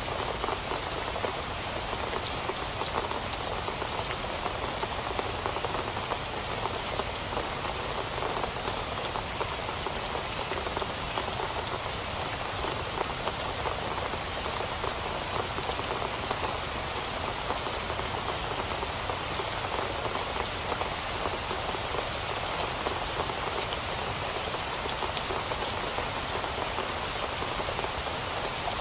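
Steady rain falling, an even hiss of many drops with fine scattered patter, unchanging throughout.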